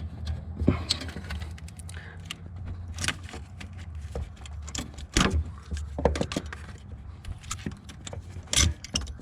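Scattered metallic clicks, taps and light rattles of hands working at the gearbox end of a Hyundai's gear-shift cable linkage, with louder clicks about five and eight and a half seconds in, over a steady low hum.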